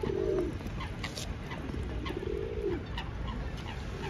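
A pigeon cooing twice, each a low rising-then-falling call, one at the start and one about two seconds in, over a low steady background rumble.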